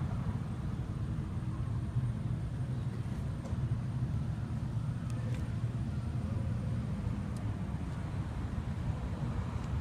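Honda CB1300SA's inline-four engine idling, a steady low rumble.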